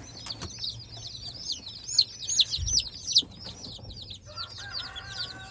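A brood of day-old Black Australorp chicks peeping continuously, many quick high chirps overlapping. A dull thump about halfway through, and a faint steady tone near the end.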